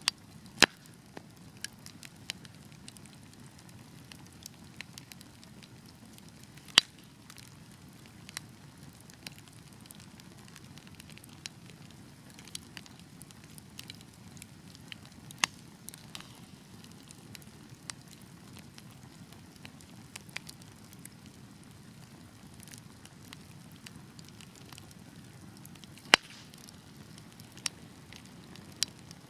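Wood fire crackling, with sharp pops scattered irregularly over a soft, steady low rush of burning; a few pops stand out much louder than the rest.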